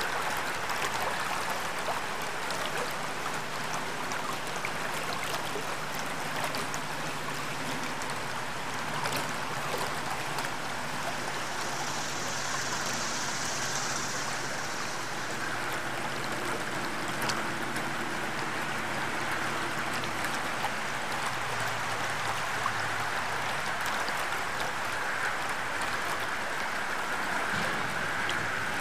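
River or stream water running steadily, with a faint low hum under it through the middle stretch and a brief high hiss about halfway through.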